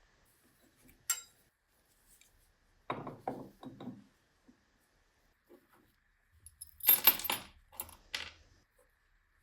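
Small metal parts and tools clinking and knocking as they are handled and set down: a sharp click about a second in, a quick run of knocks around three seconds, and the loudest burst of clinks about seven seconds in, with one more shortly after.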